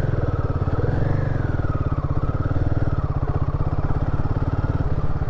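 Royal Enfield Himalayan 450's single-cylinder engine running at low revs as the bike is ridden slowly through slippery mud. It rises briefly about a second in, then settles back to a steady low pulse.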